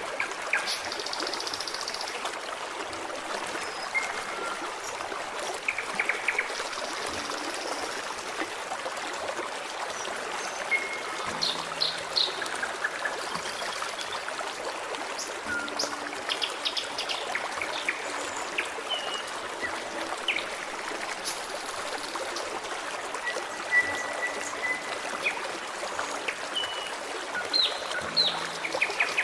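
A forest stream trickling and babbling steadily, with birds chirping and whistling in short scattered calls over it.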